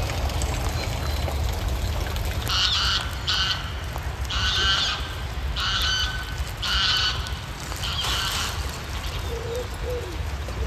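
A bird calling about six times in a row, short repeated calls from a few seconds in until near the end, over a steady low rumble.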